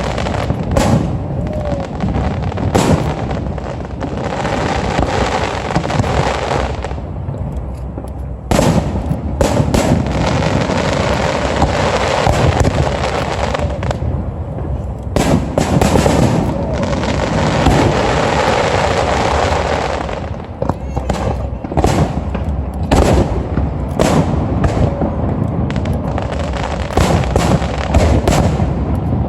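Aerial fireworks display: shells bursting in a rapid, irregular string of sharp bangs and crackles, in dense clusters with brief lulls, over a steady background din.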